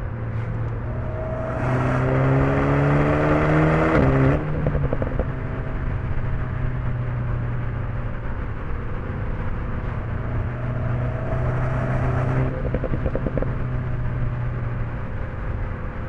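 Alpine A110 S's turbocharged 1.8-litre four-cylinder engine under way, twice accelerating with a rising note and then lifting off, each lift-off followed by a quick rattle of exhaust pops; between the pulls it runs at a steady cruise.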